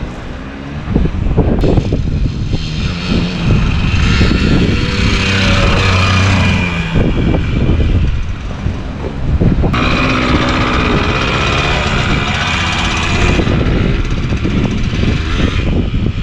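Yamaha DT100's single-cylinder two-stroke engine running under way, its pitch climbing and dropping several times as it revs up and eases off.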